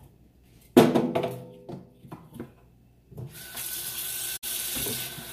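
A few knocks and clatters, the loudest about a second in with a short ringing tail, then a kitchen faucet is turned on about three seconds in and water runs steadily into the sink.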